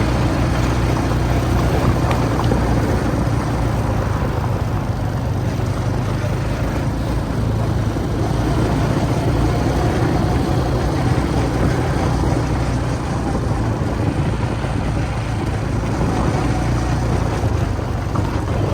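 Quad bike engine running steadily while under way: a low, even drone with a wash of noise over it that cuts off suddenly at the end.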